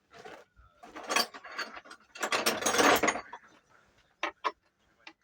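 Ratchet wrench clicking in three short runs, then two single clicks near the end.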